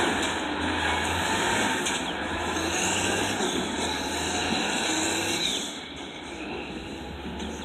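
Mack RD dump truck's diesel engine running, with a broad mechanical rumble that gets quieter about five and a half seconds in.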